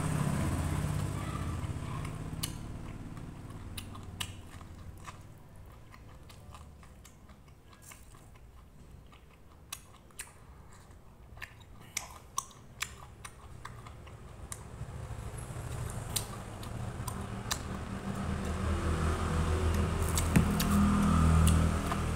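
Close-mic chewing and biting into a corn cob: scattered sharp crunches and clicks, with louder, denser chewing near the start and again building toward the end.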